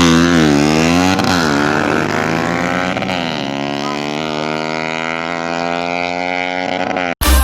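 Single-cylinder four-stroke engine of a Yamaha Jupiter MX motorcycle revving through a Pro Liner aftermarket exhaust. The revs dip and climb twice in the first second or so and blip once about three seconds in, then the engine holds a steady lower speed until the sound cuts off just before the end.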